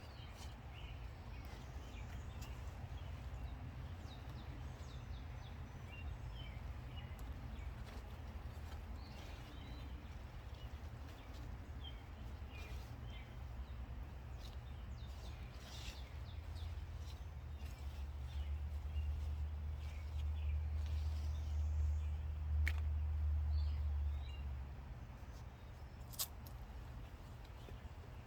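Outdoor garden ambience: scattered short bird chirps over a steady low rumble that grows louder for several seconds near the end, with a few faint clicks.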